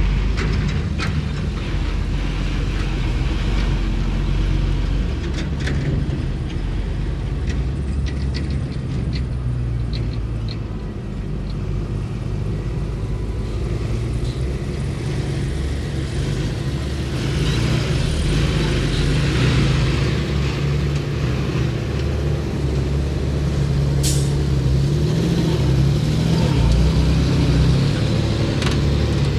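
Heavy diesel earthmoving machinery running steadily, with scattered short metallic clicks and clanks in the first third and one brief sharp hiss late on.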